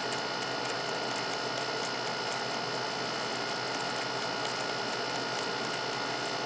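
Steady mechanical background noise, a whir with rapid fine clicking and a few thin steady whining tones.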